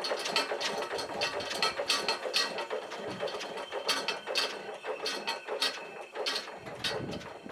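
Line shaft drive and the vintage bandsaw it powers running, a rapid, uneven mechanical clicking and rattling.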